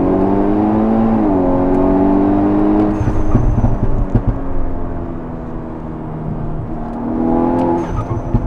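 Tuned VW Golf 6 R's turbocharged 2.0 TSI four-cylinder pulling hard under throttle from inside the car, with a gear change about a second in. About three seconds in the driver lifts off and the exhaust crackles and pops from its popcorn exhaust tune, before the engine pulls again near the end.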